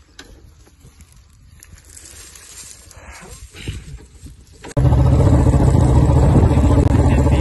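Faint rustling and handling for about four and a half seconds, then a Royal Enfield Bullet's single-cylinder engine cuts in suddenly, running loud and steady as the motorcycle is ridden.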